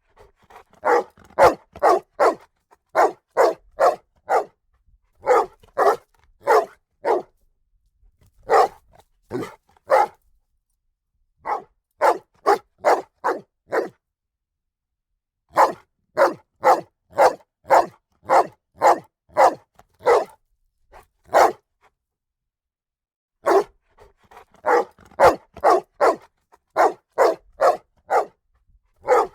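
A dog barking hard in quick volleys of several barks, about two to three a second, with pauses of a second or two between volleys.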